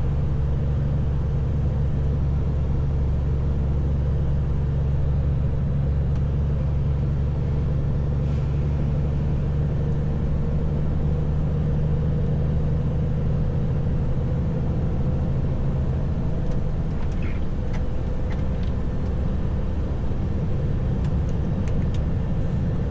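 Heavy truck's diesel engine and road noise heard from inside the cab while driving, a steady low drone.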